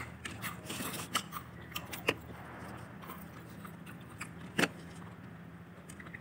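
Crispy KFC fried chicken being bitten and chewed: scattered sharp crunches and crackles, the loudest about two and four and a half seconds in, over a low steady hum.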